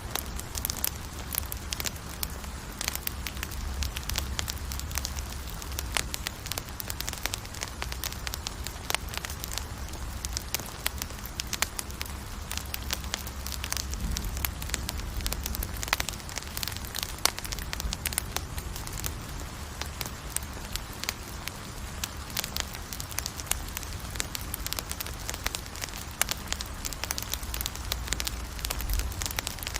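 Campfire burning, with a dense, irregular crackle of small pops and snaps throughout and a steady low rumble beneath.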